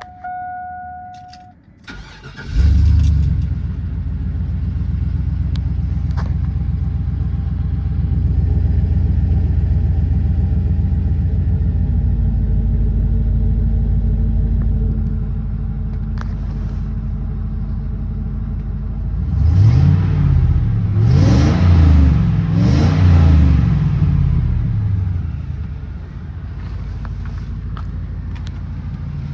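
2001 Chevrolet Suburban 2500's V8 cranking and catching about two seconds in with a loud flare, then idling steadily. Around twenty seconds in it is revved three times, each rev rising and falling, before it settles back to idle. A short steady tone sounds before the cranking.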